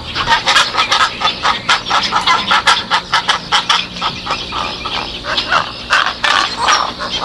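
A flock of birds calling, with many short calls overlapping in a fast run.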